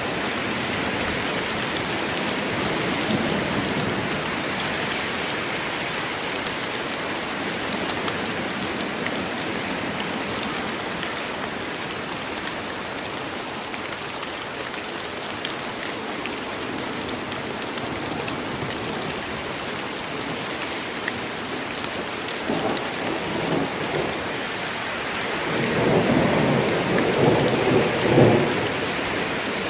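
Steady heavy rain in a forest, falling continuously. Near the end, thunder rumbles twice, the second roll longer and louder.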